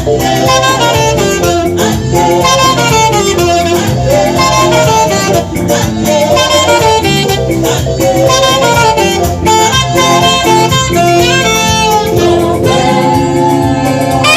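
Live gospel music with a saxophone playing a gliding melody over a backing band.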